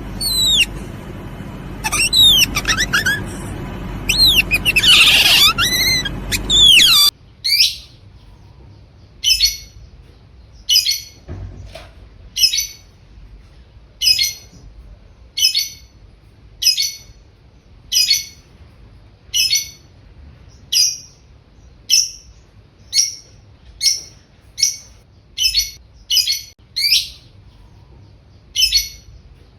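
Bird calls: for about seven seconds, high chirps and falling whistles over a steady hiss. Then the sound changes abruptly to a single short call repeated about once a second, coming faster near the end.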